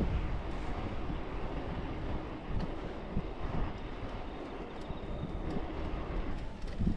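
Wind buffeting the microphone on a moving bicycle, a steady low rumble that rises and falls, with a few faint ticks.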